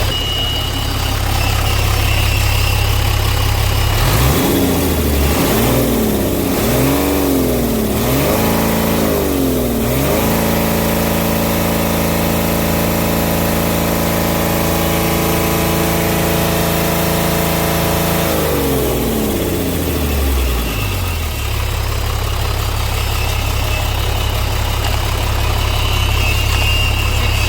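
Mitsubishi Fuso Fighter truck's 6D17 six-cylinder diesel idling, then revved in several quick blips that rise and fall, held at a steady higher speed for about eight seconds, and let fall back to idle.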